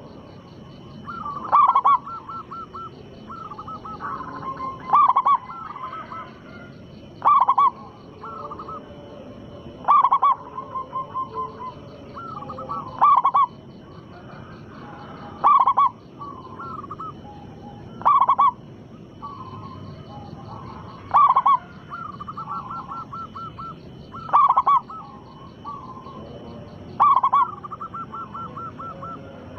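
Zebra dove (perkutut) cooing its song over and over: a loud coo followed by a quick pulsed trill, repeated about every two and a half to three seconds, about ten times.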